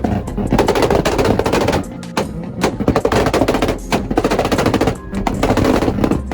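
Two cars, a Mazda RX-7 rotary and a Toyota Supra Mk4, on two-step launch control together: engines held at the rev limiter with a rapid string of exhaust pops and bangs, with short breaks about two and five seconds in.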